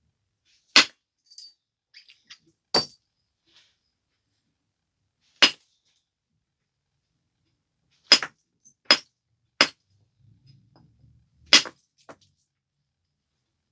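Sharp, clinking knapping strikes as flakes are taken off a stone biface during refining: seven main cracks at uneven intervals, three in quick succession past the middle, with small ticks between them.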